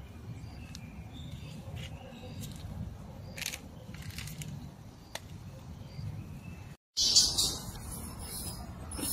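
Faint outdoor ambience with scattered short bird chirps and a few light clicks. About seven seconds in, the sound drops out for a moment, then a louder hiss takes over.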